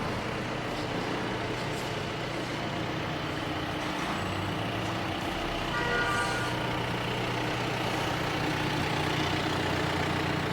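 A motor vehicle running steadily, with a short tone about six seconds in.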